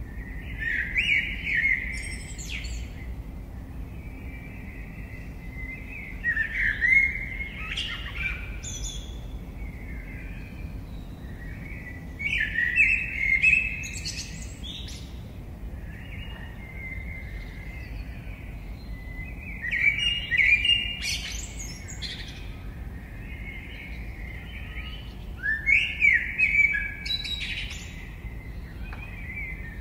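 A songbird singing in short phrases of rising, chirping notes, five times at about six-second intervals, over a low steady background rumble.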